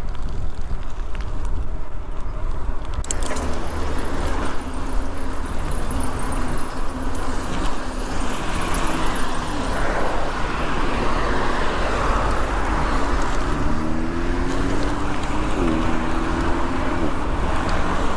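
Road traffic passing, with a steady low rumble underneath. Past the middle, a vehicle's engine speeds up with a rising pitch.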